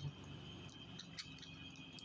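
Faint outdoor nature ambience: a steady high-pitched trill or hum holding two even tones, with a few soft ticks.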